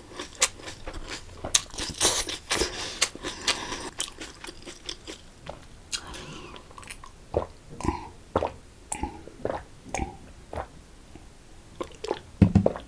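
A person eating: crunching bites and chewing, with the sharp crunches densest in the first few seconds and sparser later.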